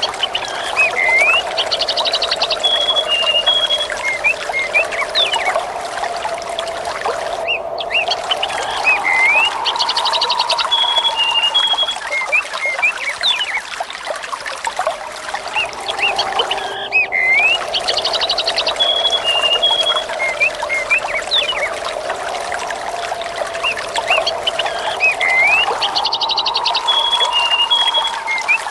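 Trickling water with birds chirping and trilling, over a soft wind whistle that slowly rises and falls in pitch. The same few seconds of birdsong come round again about every eight and a half seconds, each pass broken by a brief dropout: a looped nature recording.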